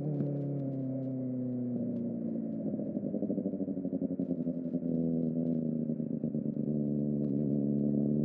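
Kawasaki ZX-4RR inline-four engine through a Trick Star Ikazuchi slip-on exhaust, running at low revs with a steady note that dips slightly and pulses unevenly midway, then climbs in pitch near the end as the revs rise.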